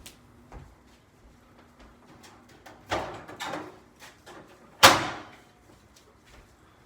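Kitchen handling while coffee is being made: light clicks, two knocks about three seconds in, and one sharp bang near five seconds that rings out briefly.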